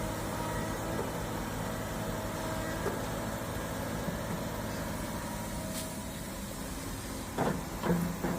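Hydraulic excavator's diesel engine running steadily while loading topsoil, with a few short knocks near the end.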